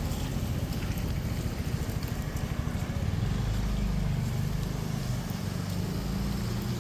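A motor vehicle's engine running close by, a low rumble that grows louder about three seconds in and stays up.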